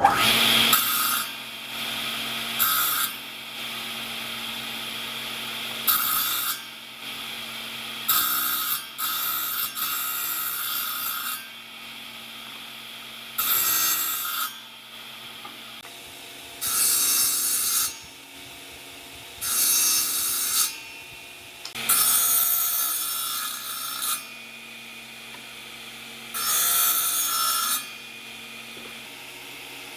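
A tool working wood in about ten separate passes, each one to two seconds long and a second or two apart, over a steady low hum.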